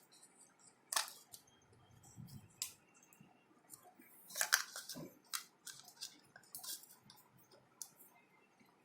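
Homemade slime being worked, giving irregular sticky clicks and crackles, with the loudest cluster about four and a half seconds in.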